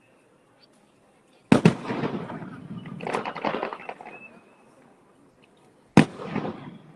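Aerial fireworks: a sharp bang about a second and a half in, followed by a couple of seconds of crackling, and a second bang near the end with more crackling.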